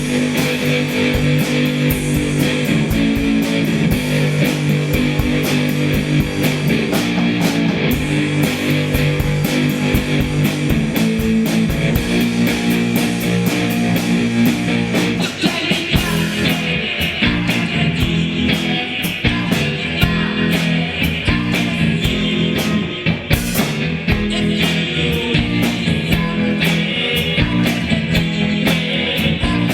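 Rock music: guitars over a steady drum beat.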